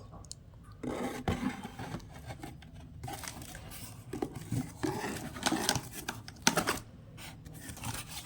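Irregular rustling, rubbing and scraping of something being handled, with a few sharp knocks; the loudest bursts come in the middle and a sharp one about six and a half seconds in.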